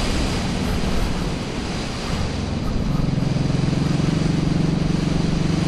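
Suzuki Boulevard C90BT's V-twin engine running at road speed under wind rush on the microphone. About three seconds in, the engine note becomes steadier and louder.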